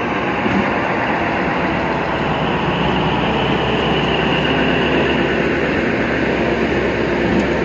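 Passenger train pulling out of a station, its coaches rolling past close by with a loud, steady rumble of wheels on the rails.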